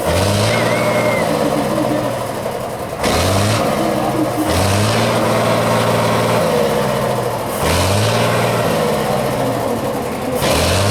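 Competition truck engine revving hard in repeated surges: several times the pitch climbs and then holds high.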